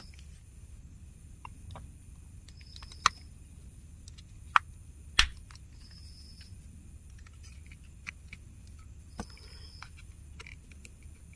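Tools and fingers clicking and tapping against a small plastic earbud shell while it is being worked open, with three sharp clicks in the middle and a few lighter ones later.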